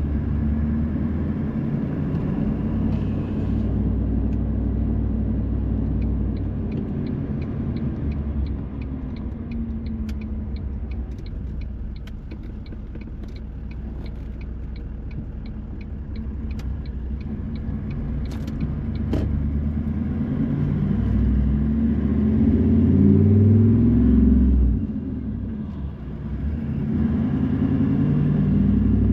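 Car engine and road noise rumbling from inside the cabin. In the middle, a turn-signal indicator ticks about twice a second for some ten seconds. Later the engine note rises as the car accelerates, dips briefly, then climbs again.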